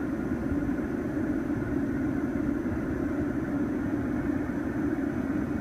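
Steady, even hum and air rush inside a stationary BMW 428i Gran Coupe's cabin, from the engine idling and the climate control fan blowing.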